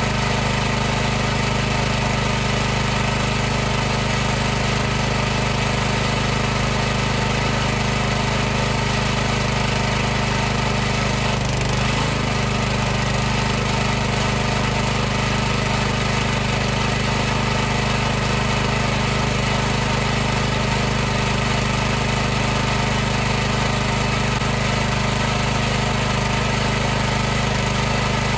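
High-pressure washer running steadily: a constant motor-and-pump hum with a hiss of noise over it.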